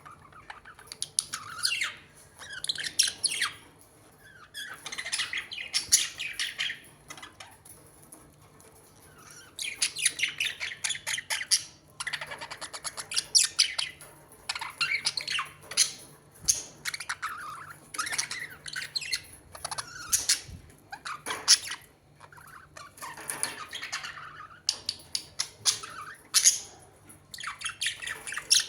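Birds chirping and squawking in repeated bouts of rapid calls, with short pauses between bouts.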